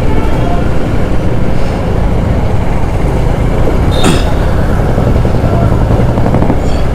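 Motorcycle engine running steadily on the move, with road and wind noise, and a brief sharp sound about four seconds in.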